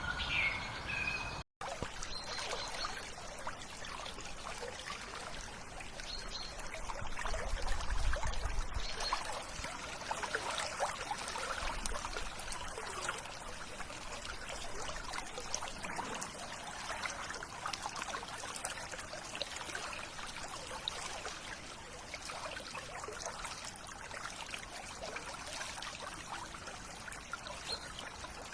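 River water trickling and flowing steadily, with a few faint bird notes. The sound cuts out completely for an instant about a second and a half in.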